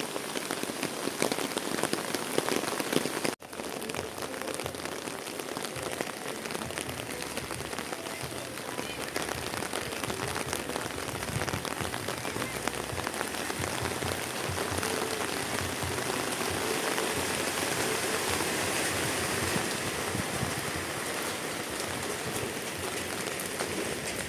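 Heavy rain falling: a dense, steady hiss full of fine raindrop patter. It cuts out for an instant about three seconds in, then carries on evenly.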